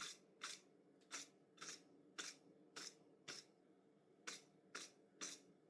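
Wire brush scrubbing a forged 4140 steel chisel to clean off the forge scale: short scraping strokes, about two a second, with a brief pause a little past the middle.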